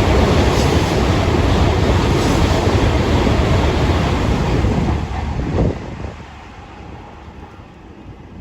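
Shinkansen bullet train passing through the station at high speed: a loud, steady rushing noise that cuts away about five and a half seconds in as the tail of the train goes by.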